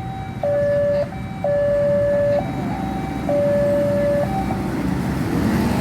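Railway level-crossing warning alarm sounding its electronic two-tone signal, a higher note alternating with a lower one about once a second, until it stops about four and a half seconds in. Road traffic rumbles underneath and grows louder near the end.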